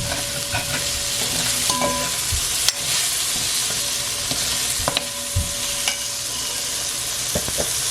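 Sliced okra frying in oil in a pot with a steady sizzle, while a spoon stirs it, scraping and knocking against the pot a few times.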